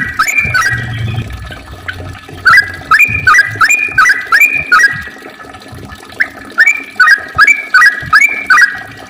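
Yellow-vented bulbul singing. It gives three quick runs of short, clear, rising notes with brief pauses between them, the rapid 'ropel' song.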